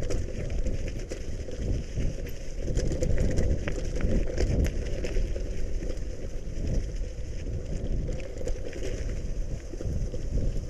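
Gravel bike riding over a bumpy gravel fire road: a steady low tyre rumble with scattered rattles and clicks from the bike over the bumps.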